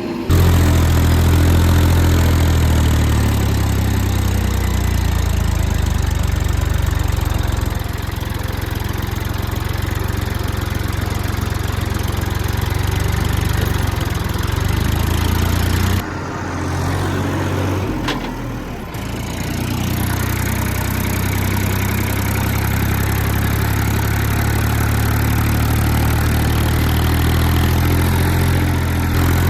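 Heavy diesel engine running steadily at close range, with a low, even rumble; it drops back for a few seconds about halfway through, then picks up again.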